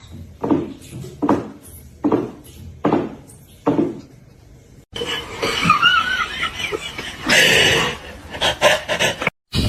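A person laughing in short repeated bursts, about one every three-quarters of a second, followed after a sudden break by a denser mix of noisy sound.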